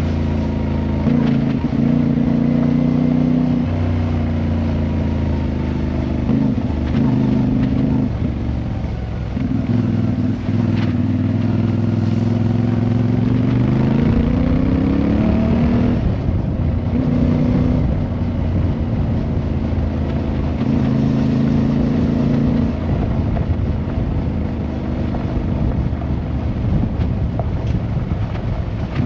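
Motorcycle engine running under way, its pitch holding at different speeds, rising as it accelerates about halfway through and then dropping back.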